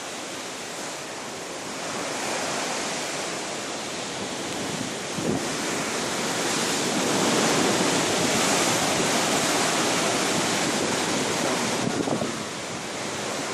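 Atlantic Ocean surf: waves breaking and washing in a steady rush that builds, is loudest in the middle, and eases near the end. Wind blows over the microphone.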